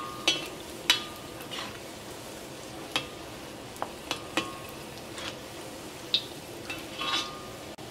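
Cashews and chopped dates frying in hot oil in a wok, a steady sizzle, while a perforated steel skimmer stirs them and clinks against the pan about nine times at irregular intervals.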